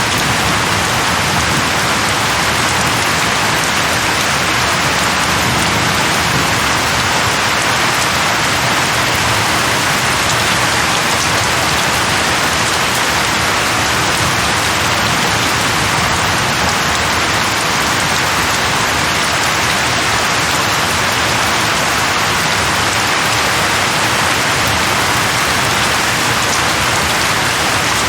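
Steady rain falling, an even, continuous hiss of rain on a surface with no let-up or change.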